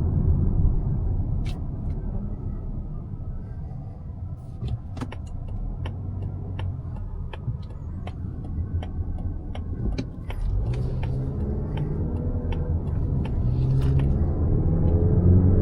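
Road and engine rumble inside the cabin of a 2025 Mazda CX-5 with its naturally aspirated 2.5-litre four-cylinder, quieter in the middle while a turn-signal indicator ticks about three times a second. Just after the ticking stops, the engine pulls away with its pitch rising as the car accelerates.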